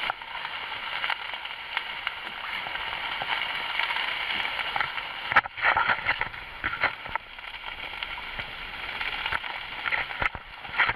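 Water rushing and splashing past the hulls of a Nacra 5.5 sailing catamaran under way in a one-metre chop, with many small slaps of spray and a louder sudden hit about five seconds in.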